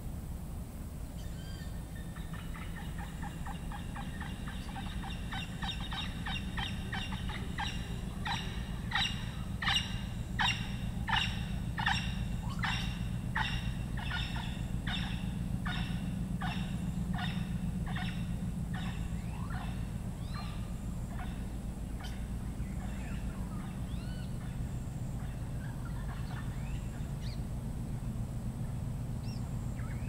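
A jungle bird's call repeated in a long, even series, about one to two notes a second, building up over the first several seconds, loudest around ten seconds in, then thinning out and stopping a few seconds past the middle. A steady low hum and a steady high-pitched drone run underneath.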